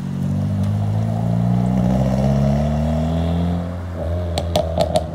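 Car engine revving up as a Honda Civic hatchback accelerates away, its pitch rising for a couple of seconds, then dropping as it changes gear. Four sharp pops follow in quick succession near the end.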